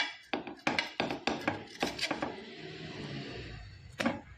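A quick run of about eight sharp knocks of kitchen utensils against cookware, then a steady scraping noise, and one more knock near the end.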